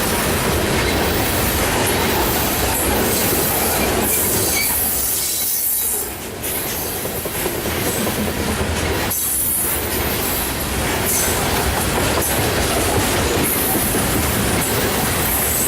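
Loaded coal cars of a freight train rolling past, wheels clacking over rail joints and squealing against the rail, with a brief lull about six seconds in.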